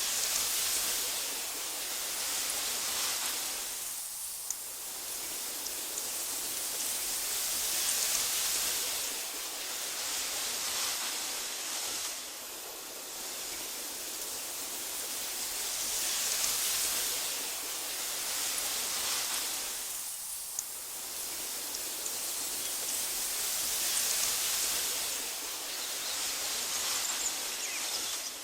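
Wind blowing through tall meadow grass: a steady hiss that swells and fades in gusts about every eight seconds, with a few faint clicks now and then.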